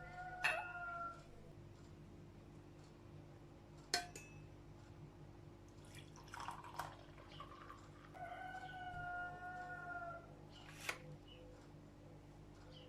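A rooster crowing twice, each crow about two seconds long and fairly level in pitch, the first at the start and the second about eight seconds in. A few sharp clicks fall between them over a low steady hum.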